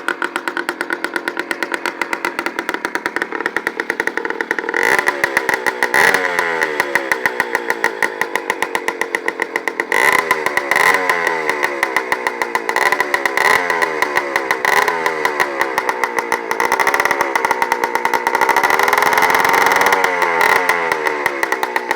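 Honda MTX 80 two-stroke single-cylinder engine with a straight-pipe exhaust. It idles with a rapid, even popping, and from about five seconds in it is blipped again and again: short revs that climb and drop back to idle, with a longer rev held near the end.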